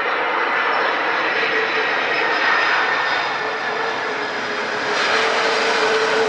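Airplane engines running steadily and loudly: a dense rushing noise with a thin steady whine through it.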